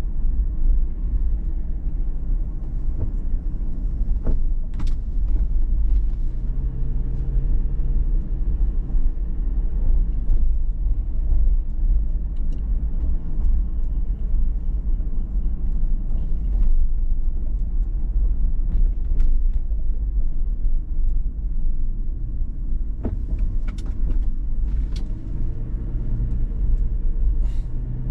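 Steady low rumble of a 2019 Toyota 4Runner TRD Pro on the move, its 4.0-litre V6 and road noise making a deep drone. A hum from the engine comes up about six seconds in and again near the end, with a few faint clicks.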